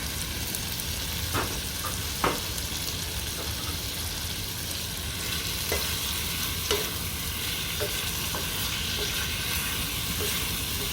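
Chicken pieces coated in barbecue sauce sizzling steadily in a frying pan, with a utensil clicking against the pan now and then as they are stirred.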